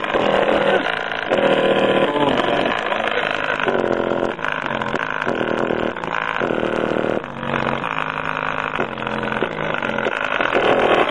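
PPI 10-inch subwoofer, mounted free-air and driven hard, playing repeated bass notes roughly once a second with a harsh, distorted buzz. The cone has a hole torn in it and the voice coil is overheating and smelling burnt.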